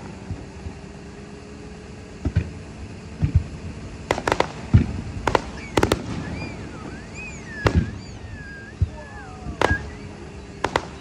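Fireworks display: aerial shells launching and bursting with sharp, irregular bangs. Some come in quick clusters of two or three, about four and six seconds in.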